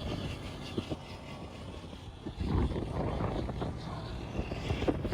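Motorcycle engine and road noise, an uneven low rumble, with faint voices now and then.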